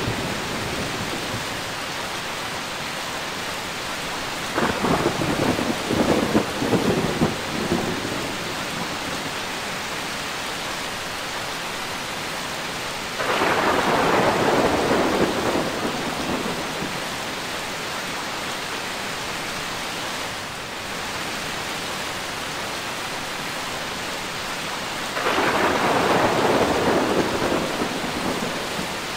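Steady rain with three rolls of thunder swelling over it: one about five seconds in, one near the middle and one near the end.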